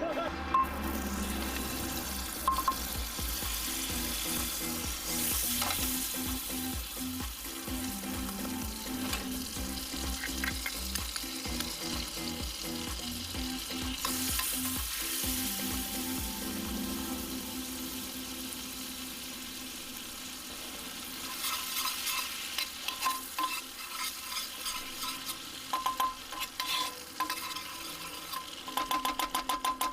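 Food sizzling as it fries in a pan, with sharp clicks and taps more frequent in the last third.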